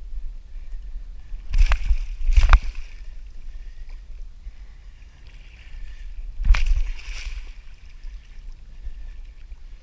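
Water splashing and sloshing around a kayak in two pairs of short bursts, the second pair about four seconds after the first, over a steady low rumble.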